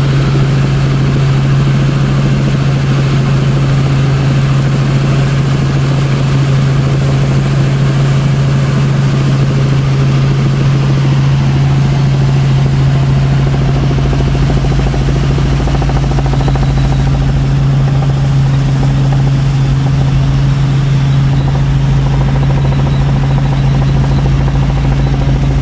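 Helicopter in flight, heard from on board: a loud, steady drone of engine and rotors with a strong low hum. About halfway through, a deeper rumble and more hiss join in.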